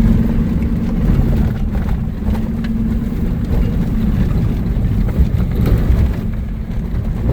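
Vehicle driving along, a steady low engine and road rumble heard from inside the cab, with a steady hum that fades out about four seconds in.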